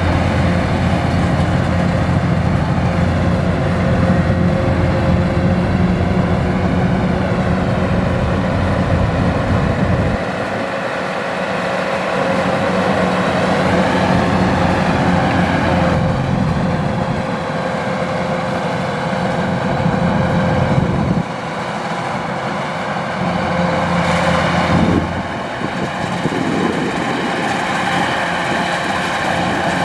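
Kubota DC-105X rice combine harvester running steadily at working speed, its diesel engine and threshing machinery droning. The low engine rumble fades at about ten seconds and changes again a couple of times later.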